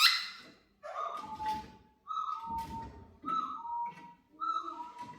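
Laughingthrush singing: a burst of quick rising whistles, then four repeated whistled phrases about a second apart, each a held note stepping down to a lower one.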